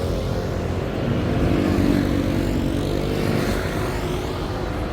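Steady low rumble of traffic noise, with a vehicle's engine hum swelling about a second or two in and then fading.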